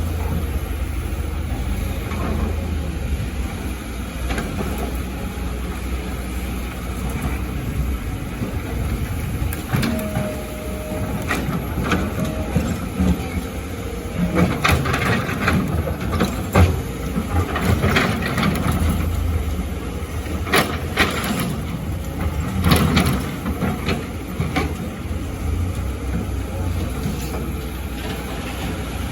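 Excavator engine running steadily, with a series of knocks and clatter of rock and sand as the bucket works, mostly from about ten seconds in until near the end.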